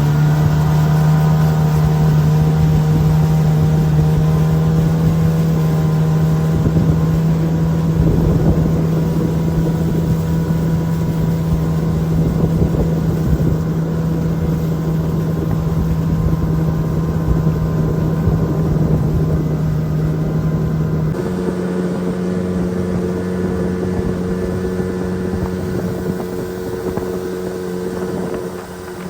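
Boat motor running steadily at cruising speed, with water and wind noise around it. Its engine note steps abruptly to a slightly higher pitch about three-quarters of the way through.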